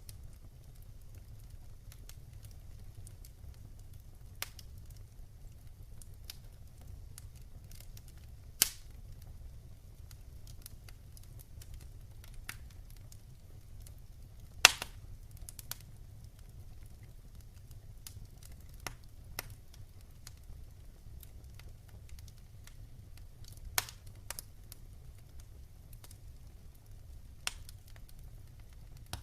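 Fireplace fire crackling: scattered sharp pops over a low steady rumble, the two loudest pops about nine and fifteen seconds in.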